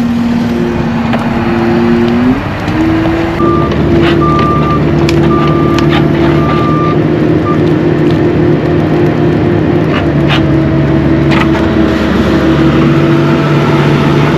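Compact heavy-equipment diesel engine running steadily, its pitch stepping up about two seconds in as it is throttled up. An intermittent beep sounds for a few seconds after that, and there are a few sharp knocks.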